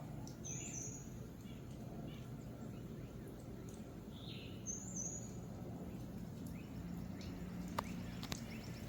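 Small birds chirping outdoors: two short, high chirps about four seconds apart and a few fainter calls, over a steady low background hum, with a couple of faint clicks near the end.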